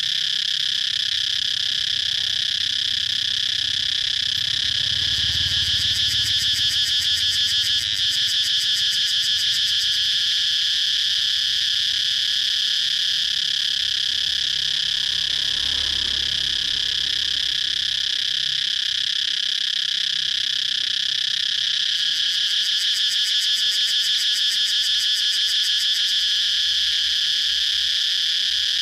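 Cicadas singing: a continuous high, steady buzz that twice swells into a fast, even pulsing, about five seconds in and again after about twenty-two seconds.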